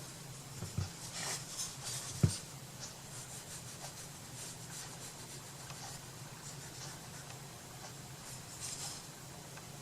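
Light rubbing and rustling of paper being handled and smoothed during crafting, with two small knocks about one and two seconds in, over a low steady hum.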